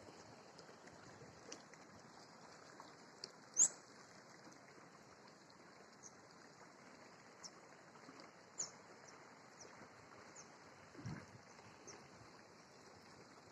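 Small birds giving short, high chirps spread out over a faint steady outdoor background. The loudest chirp comes about three and a half seconds in and another strong one a few seconds later. There is a soft low thump near the end.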